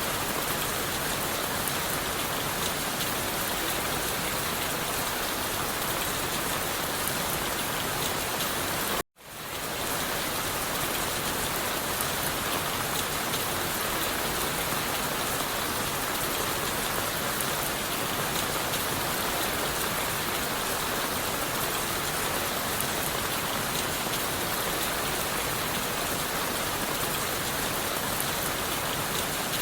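Steady rain falling on leaves and wood, an even hiss. About nine seconds in the sound cuts out for a split second and then swells back up, like an edit join in the recording.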